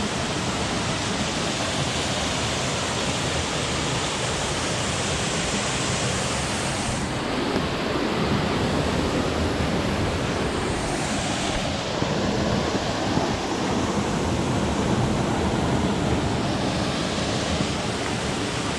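Waterfall and mountain stream rushing, a steady dense roar of falling water.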